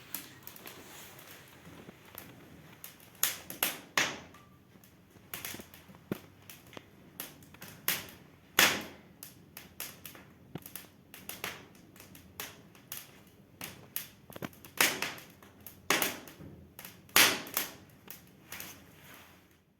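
Irregular sharp clicks and taps, several every couple of seconds, with a few louder knocks among them.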